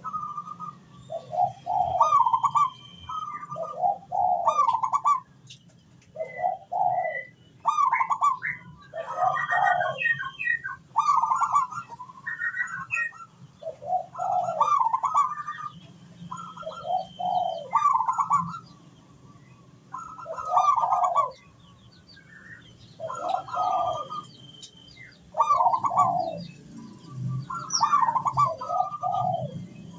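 Zebra dove (perkutut) singing: phrase after phrase of rapid, stuttering coos, one every second or two with a few short pauses. Faint high chirps from small birds sit behind it.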